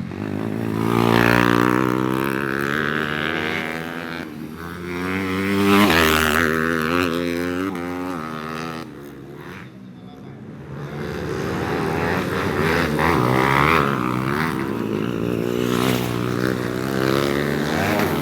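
155 cc trail motorcycles racing on a grasstrack, their engines revving up and down in waves as riders accelerate and back off through the course, with several bikes passing close, the loudest about a second in, around six seconds and from about twelve seconds on.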